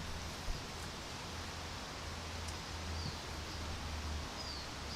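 Outdoor ambience: a steady background hiss and low rumble, with a few faint, short bird chirps about three seconds in and near the end.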